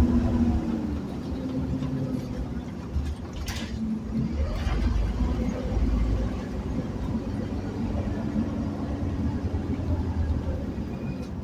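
Scania OmniCity single-decker bus under way, heard from inside: its diesel engine and driveline give a steady low rumble. The engine note drops about a second in, climbs again around the middle, and there is a brief rattle about three and a half seconds in.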